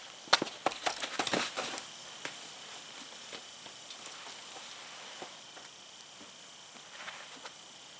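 Wood fire crackling, with a quick run of sharp cracks and snaps in the first two seconds, the first of them the loudest, then scattered small pops and a short burst near the end.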